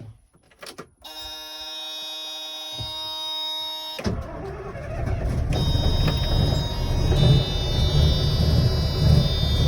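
Scania 142H's straight-piped 14-litre V8 diesel being cold-started. The starter gives a steady electric whine for about three seconds, then the engine catches suddenly about four seconds in and settles into a loud, low running rumble that builds over the next few seconds.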